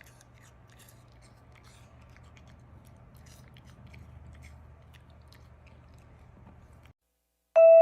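Alaskan Klee Kai puppy chewing a treat: faint, scattered crunching clicks over a low hum. The chewing cuts off near the end, and a chiming glockenspiel-like tune starts just before the close.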